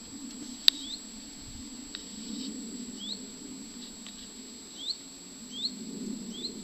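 A small bird giving short rising calls, one every second or two, with a sharp click just under a second in.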